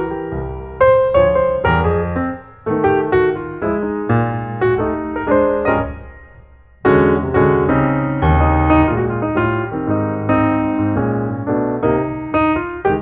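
Background piano music: a melody of struck notes over chords. It dies away about six seconds in, and then a fresh phrase starts.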